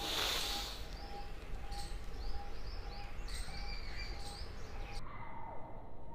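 Birds calling in a garden: a short low note repeated evenly about every half second, with a few brief high chirps over a soft outdoor background.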